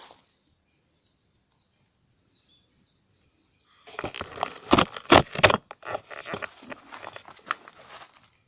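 Wood fire crackling and popping. It starts about four seconds in with a few loud, sharp pops, then keeps up a run of smaller crackles.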